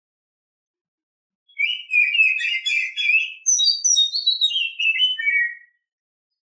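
Female oriental magpie-robin (kacer) singing one phrase of about four seconds, starting about a second and a half in. It opens with a burst of chattering notes, then a run of clear whistled notes stepping down in pitch.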